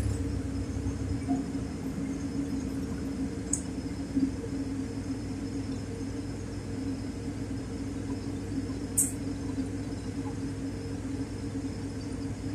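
LiAZ 4292 city bus running with a steady, even hum and low rumble, no revving. Two brief high clicks sound about three and a half and nine seconds in.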